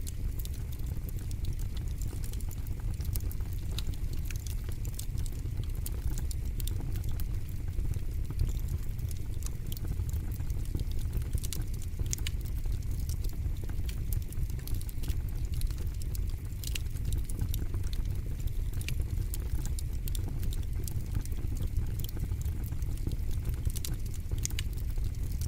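Fire crackling in a fire pit: irregular sharp pops and snaps over a steady low rumble.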